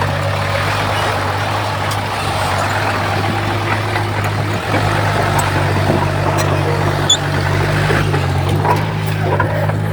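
Bulldozer's diesel engine running steadily as a loud, low drone, with a few short clicks over it.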